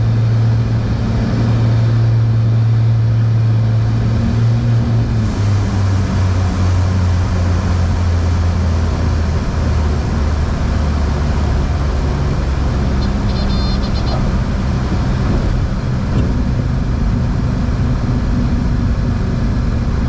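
Cessna T310R's twin turbocharged six-cylinder piston engines droning, heard from inside the cabin, with the engine note stepping down in pitch twice as power is reduced for the landing. A short high-pitched tone sounds a little past halfway.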